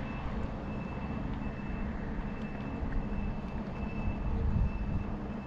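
Steady rumble of wind on the microphone and wheels rolling along the road during a bicycle ride, with a faint high whine that comes and goes.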